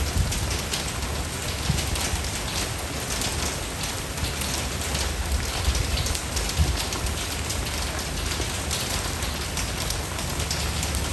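Steady rain falling on a surface, a dense patter of many small drops over a low rumble.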